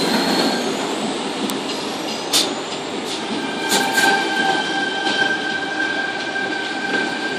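Tangara electric train running past: a steady rumble of wheels on the track, broken by a few sharp clacks over rail joints. A thin, high, steady wheel squeal comes in about halfway.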